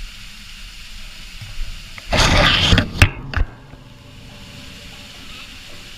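A parrot gives one loud, harsh squawk lasting under a second, followed by a sharp click and a short second squawk.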